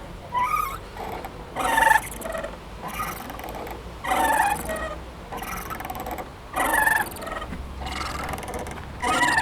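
Playground swing squeaking: a run of repeated, pitched squeals at a fairly even pace, one about every second or so, over a low steady background.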